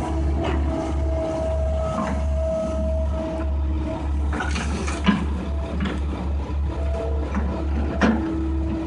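Case excavator's diesel engine running steadily under load, with a steady whine over it and two sharp knocks, about five and eight seconds in.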